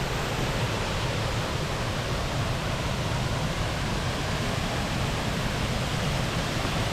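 Steady rush of water from a tiered waterfall, falling water making an even, unbroken roar.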